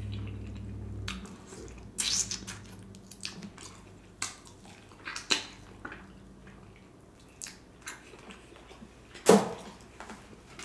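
Close-miked mouth sounds of eating oxtail off the bone: scattered wet smacks, sucking and chewing clicks, with one sharper, louder click about nine seconds in. A low hum fades out about a second in.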